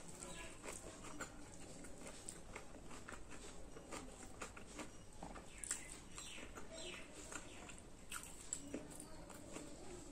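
Close-up eating sounds of someone chewing puri and chickpea curry (chole) eaten by hand: many small wet clicks and smacks of the mouth and lips.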